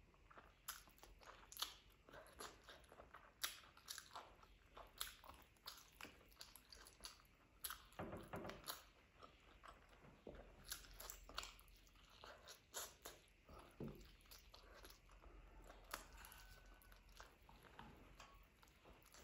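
Quiet, close-up eating sounds of a person biting and chewing a curry-covered chicken leg: irregular sharp mouth clicks and smacks, with a denser, louder stretch of chewing about eight seconds in.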